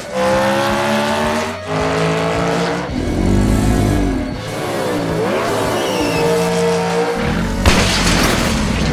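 Engine revving sound effect laid over background music, rising and falling in pitch. Near the end there is a sharp knock and a burst of hiss.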